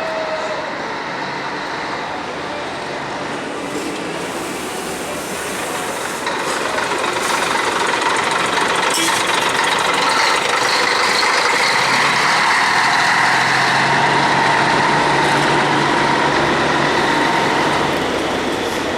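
Scania K113CL coach's 11-litre straight-six diesel engine running under way, with road noise, growing louder about six seconds in, staying at its loudest through the middle, then easing off near the end.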